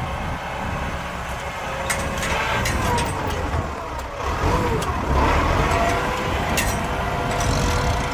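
Tractor engine running steadily with a low rumble, its pitch rising and falling as it works, with a few sharp knocks.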